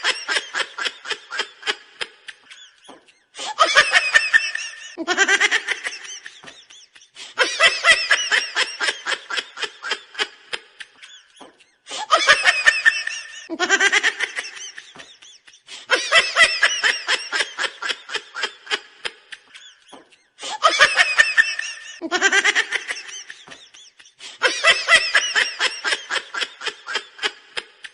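High-pitched cartoonish laughing sound effect played on a loop: each round is a quick run of rapid 'ha-ha' pulses that trails off, repeating about every four seconds.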